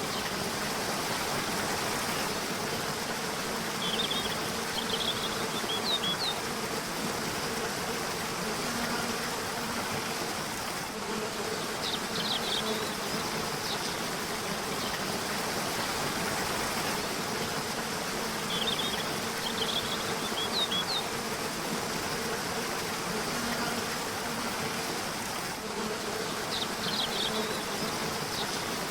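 Steady rush of river water. Bursts of high bird chirps come back about every seven seconds, with an on-and-off low buzz.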